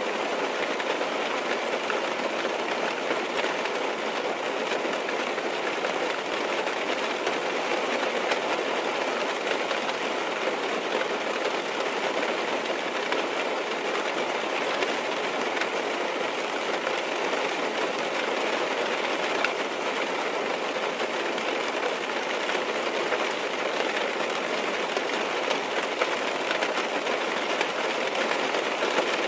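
Steady rain on a car's roof and windows, heard from inside the car: an even patter of many drops with fine scattered ticks that does not change.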